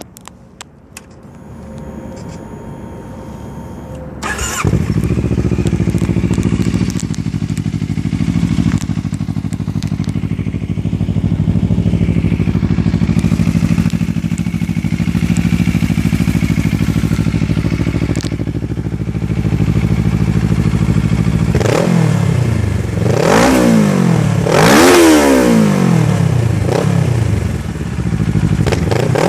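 2013 Kawasaki Ninja 650's parallel-twin engine breathing through a new Two Brothers aluminum full exhaust: a few clicks, then the engine starts about four seconds in and idles steadily. Near the end it is revved in several quick blips.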